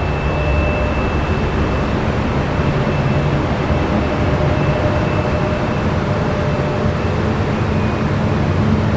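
Jet aircraft engines running steadily, with a thin high whine over a low rumble.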